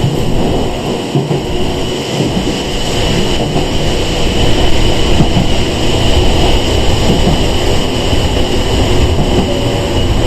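Interior running noise of a Sangi Railway 101 series electric train under way: a steady low rumble from wheels and motors, with a steady high whine above it.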